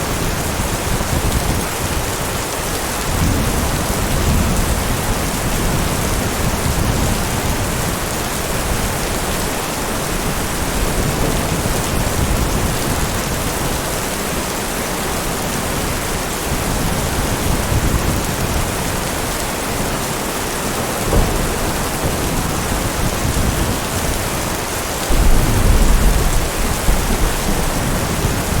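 Steady heavy rain with low rolls of thunder rumbling under it at several points. The loudest roll comes near the end.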